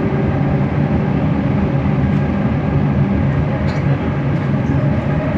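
Bombardier Innovia ART 200 metro train running, heard from inside the car: a steady rumble with the hum of its linear induction motors.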